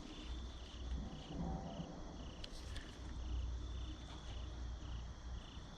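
Insects chirping in a steady, even pulse of about two and a half chirps a second, over a low rumble.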